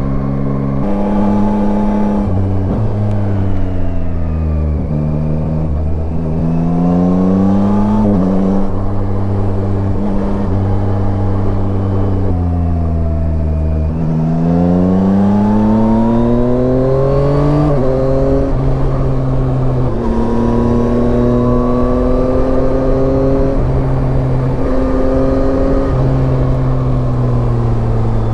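Yamaha Tracer 9's 890 cc inline three-cylinder engine under way. Its pitch falls as it slows, rises as it accelerates, drops suddenly at two gear changes, and holds steady while cruising.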